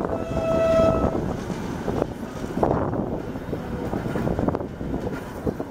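Passenger carriage of a train running along the track, with wheel and rail rumble, a few irregular knocks and wind buffeting the microphone. A short, steady high tone sounds for about a second at the start.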